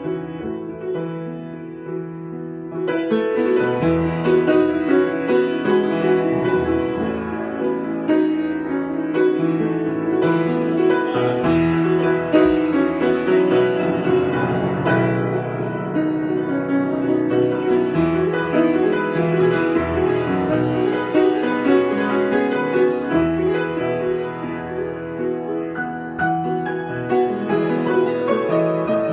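Solo piano improvisation: softer, sparser playing for the first few seconds, then fuller chords and louder playing from about three seconds in.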